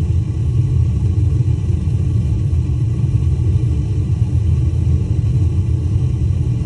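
Gas water heater's main burner running with a steady low rumble; the owner thinks the flame is weaker than it should be.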